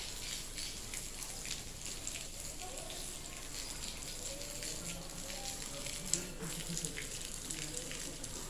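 Steady patter of falling rain and volcanic ash, a dense crackle of many small ticks on surfaces, with one sharper tick about six seconds in. Faint voices run underneath.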